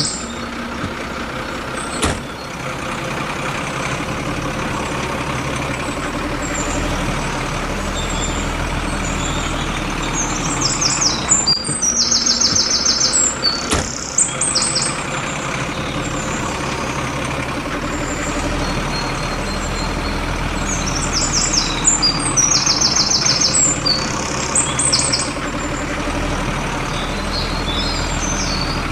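A motor running steadily with an even drone, while birds chirp in several short bunches over it.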